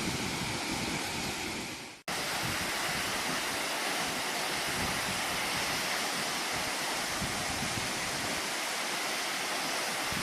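Large waterfall, water falling in a steady rushing noise. The sound fades out and cuts back in about two seconds in.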